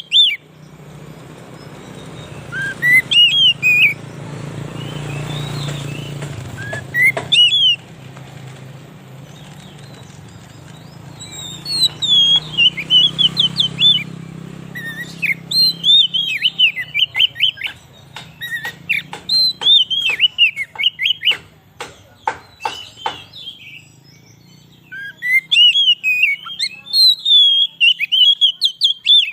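Oriental magpie-robin (kacer) singing: loud, rapid whistled phrases that sweep up and down, broken by short pauses. About two-thirds through comes a run of short, sharp notes, over a low steady hum.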